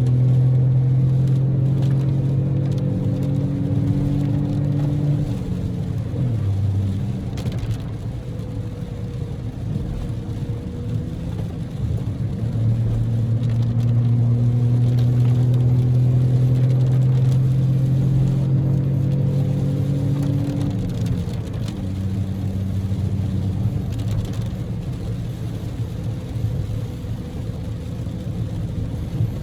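Daihatsu Move L150S's 660 cc three-cylinder EF-VE engine droning steadily under road noise, heard from inside the cabin while driving. The engine note drops away about six seconds in, comes back strongly after about twelve seconds, and eases off again around twenty-one seconds in.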